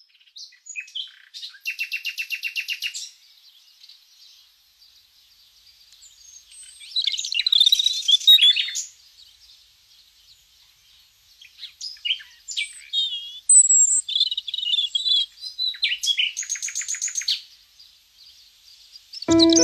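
Small birds chirping and singing in separate bursts of calls and quick trills, with short pauses between them.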